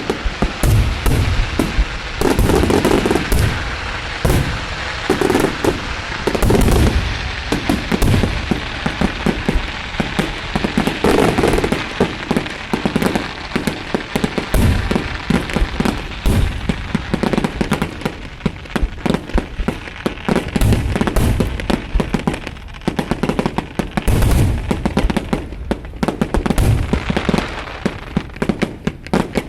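Fireworks display going off continuously: rapid strings of sharp cracks and pops over repeated deep booms of aerial shells bursting.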